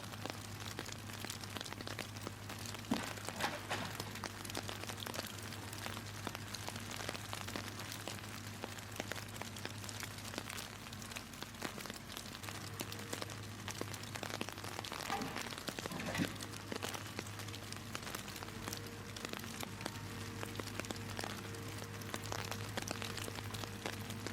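Steady rain pattering, with scattered small crackles, over the low steady hum of a Komatsu 835 forwarder's diesel engine.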